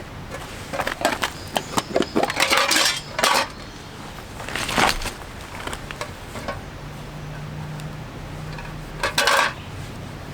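Metal camp cookware and utensils being handled, clinking and knocking in irregular clusters, with the busiest run in the first few seconds and a last clatter near the end.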